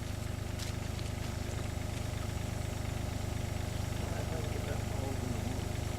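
An engine idling steadily, a low even hum with a slight regular pulse.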